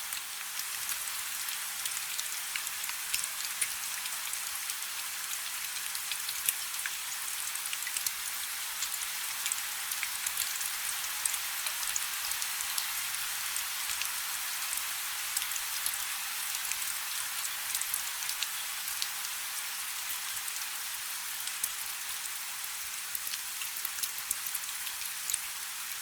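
Steady rain falling on a river: a dense even hiss of rainfall with many sharp individual drop hits scattered through it.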